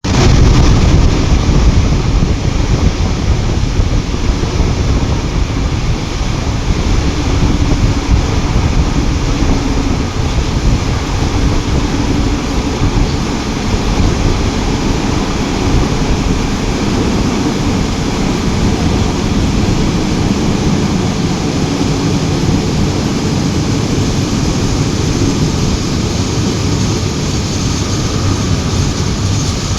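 Train running, a loud steady rumble and rushing noise with wind buffeting the microphone.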